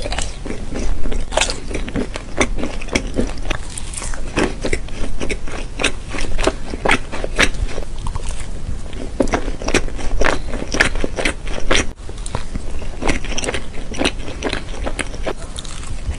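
Close-miked wet chewing and mouth sounds of someone eating syrup-soaked pancakes with whipped cream: a steady run of smacks and clicks, several a second, with a brief break about twelve seconds in.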